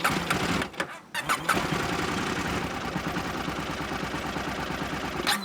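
Husqvarna Norden 901's parallel-twin motorcycle engine starting up, with a rough burst and a short dip in the first second, then running steadily.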